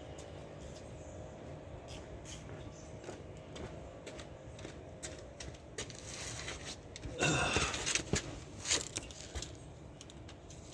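Scattered light clicks and handling noises from hand tools and a rag while working under the car, with a louder rushing, scraping burst about seven seconds in and a few shorter ones after it.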